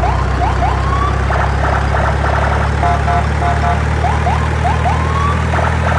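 A looping electronic alarm sound over a steady low hum. Each cycle runs a row of short steady beeps, then a few rising whoops, then fast warbling chirps, and repeats about every four seconds.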